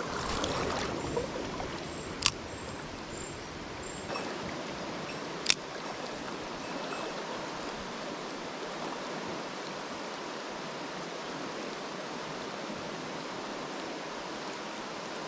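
Mountain stream water rushing steadily, with two sharp clicks, one about two seconds in and another about five seconds in.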